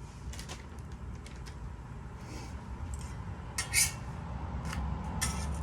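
Several short metal clinks and clatters of utensils on a flat-top griddle, the loudest a little past halfway, over a steady low hum.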